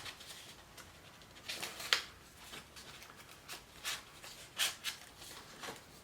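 Cardstock rustling and crackling as a folded paper wing is worked through a hole in a paper craft bird: a string of short, irregular crackles, the sharpest about two seconds in.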